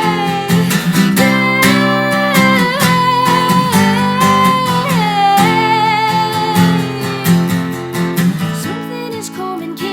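Live solo song: a woman singing long, wavering held notes over a strummed guitar.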